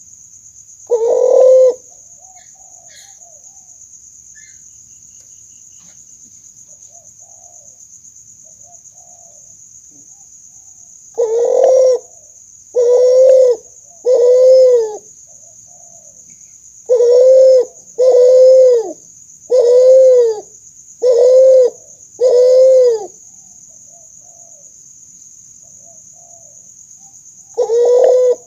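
Hybrid spotted dove × ring-necked dove ('kuter') cooing: one coo about a second in, then a run of eight arched coos from about eleven seconds in, and another coo near the end. A steady high-pitched whine sits underneath throughout.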